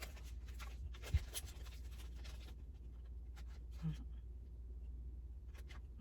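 A kitchen utensil scraping and tapping as butter is added to a dish of macaroni, with one sharper knock about a second in, over a steady low hum.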